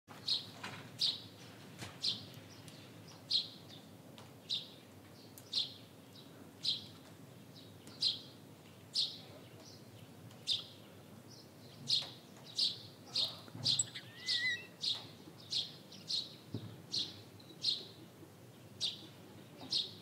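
A single bird chirping repeatedly: short, sharp, high chirps about once a second, coming quicker in the middle, with a brief warbling note about fourteen seconds in.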